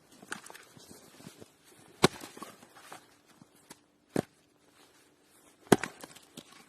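Three sharp, loud knocks or strikes spaced about two seconds apart, with lighter clicks and rustling between them.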